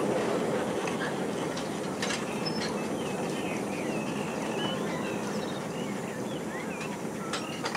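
A miniature railway train running past, its rumble slowly fading as it moves away, with scattered short high chirps over it.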